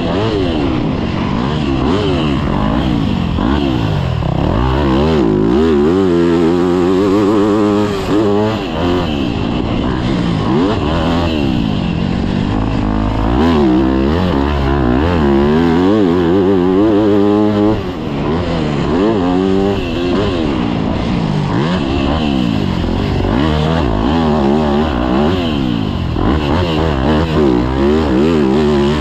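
Yamaha YZ250F's 250 cc four-stroke single-cylinder engine, ridden hard with its pitch climbing and dropping over and over as the throttle is opened and closed and the gears are shifted.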